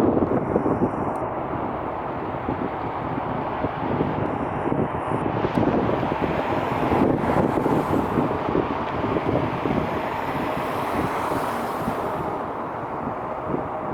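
Wind buffeting the microphone over a steady rushing noise, with two brief faint high tones, one near the start and one about four seconds in.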